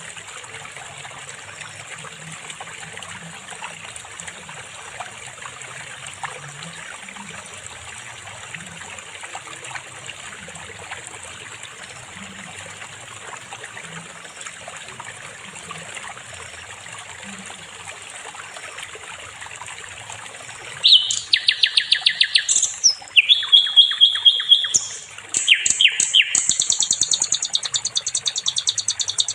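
A steady hiss with faint scattered chirps, then about 21 seconds in a sikatan londo (flycatcher) breaks into loud, high-pitched song of rapid trills in quick successive phrases.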